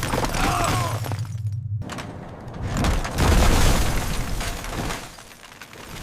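Crashing and shattering sound effects of the runaway wrecking ball smashing through things: one crash at the start, then a second, louder smash about three seconds in that dies away.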